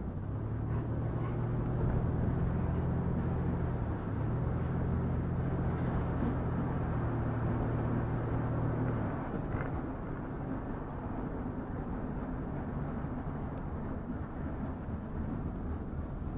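Vehicle driving: a steady low engine hum over road noise. The engine note falls away about nine seconds in, leaving the road and engine rumble.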